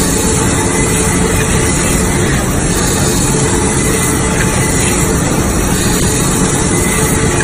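Band-saw roll-cutting machine for toilet paper running steadily, a loud constant mechanical noise with a faint steady hum in it.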